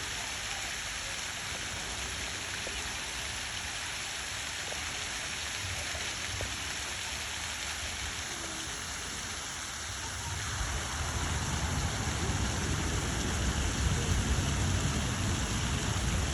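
Steady hiss of rushing water with a rain-like sound; about ten seconds in a low rumble joins and it grows louder.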